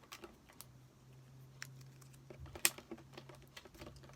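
Light, irregular clicks and taps from handling a plastic supermarket sushi tray and utensils, with one louder click a little past halfway, over a faint low hum.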